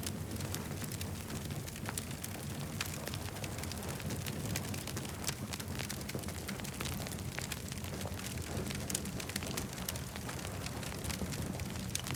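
Campfire crackling: irregular sharp pops and snaps from the burning wood over a steady low rumble of the flames.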